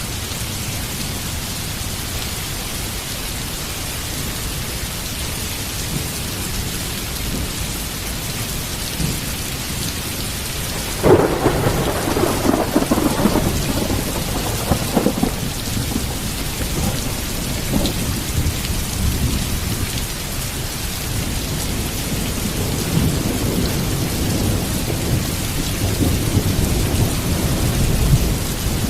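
Heavy rain falling steadily. About eleven seconds in a sudden thunderclap cracks and rolls into rumbling thunder for several seconds, with more low rumbles near the end.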